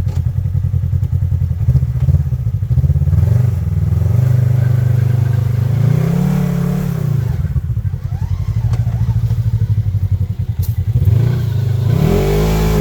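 Side-by-side UTV engine running, revving up and back down about halfway through and rising again near the end.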